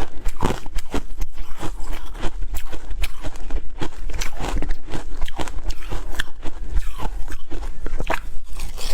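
Ice being bitten and chewed close to the microphone: a continuous run of sharp, crisp crunches and cracks, several a second.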